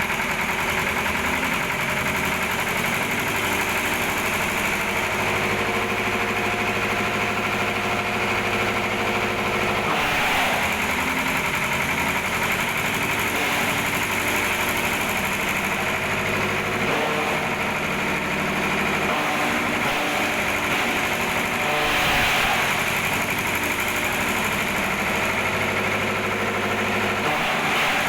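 Diesel-engine-driven agricultural shredder running steadily, with brief louder surges about ten seconds in and again a little after twenty seconds.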